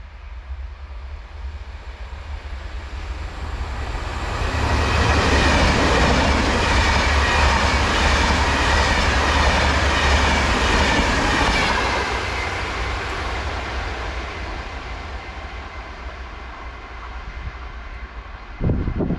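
ETR 470 Pendolino electric tilting train approaching and passing at speed: a rising rush of wheels on rail and air, loudest for several seconds as the coaches go by, then fading away. A sudden low rumble starts just before the end.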